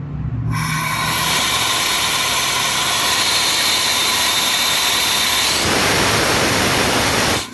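Compressed air hissing out of an Air Star 50 dental air compressor system just after its two motors have shut off at pressure. The hiss is loud and steady, begins about half a second in and cuts off suddenly just before the end.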